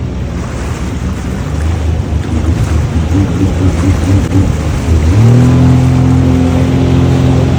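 Jet ski engine running with a rush of water and wind; about five seconds in the throttle opens and the engine rises to a louder, steady higher note.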